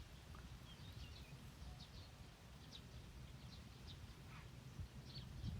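Faint field ambience: scattered short bird chirps over a low, steady rumble.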